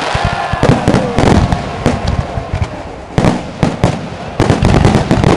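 Aerial fireworks going off in quick succession: repeated sharp bangs and crackling from bursting shells, with whistles gliding in pitch in the first second or so.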